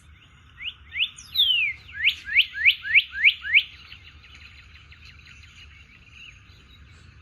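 Recorded northern cardinal song: one long whistle sliding down in pitch, then a quick run of about seven short, loud, rising whistled notes that stops a little under four seconds in. Fainter bird calls and background hiss from the recording follow.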